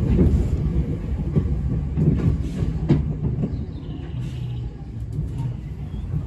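A Semboku/Nankai 3000 series resistance-controlled electric train heard from inside the car while running: a steady low rumble with sharp clacks of the wheels over rail joints at irregular intervals. A low hum comes in briefly about four seconds in.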